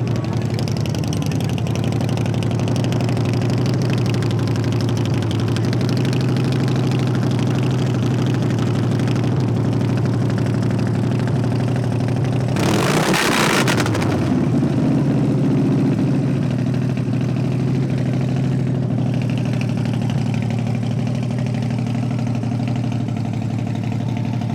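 Car engine idling steadily, with a loud rushing burst of noise lasting about a second and a half around halfway through.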